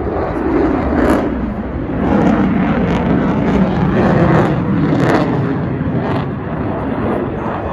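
F-16 fighter jet flying past in afterburner: a loud, rough jet roar with sharp cracks about once a second.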